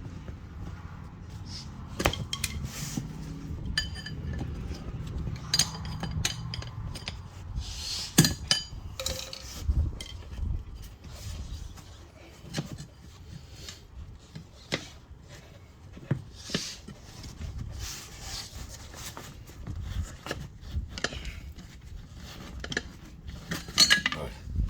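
Metal tire irons clinking, knocking and scraping against a steel wheel rim as the old tire's bead is pried off, in irregular sharp clanks.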